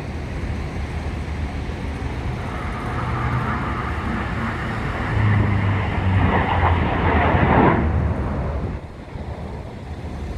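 An aircraft passing by, its engine noise building for several seconds and then falling away sharply about eight seconds in, over a steady low rumble of wind on the microphone.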